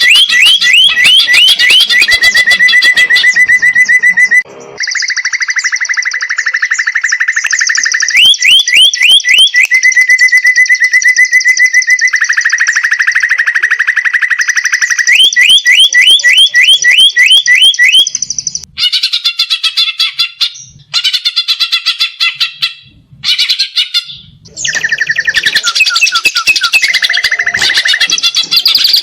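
Cucak ijo (leafbird) singing loudly: series of fast rising whistled notes alternating with long rapid trills and chattering phrases, with a few abrupt breaks late on.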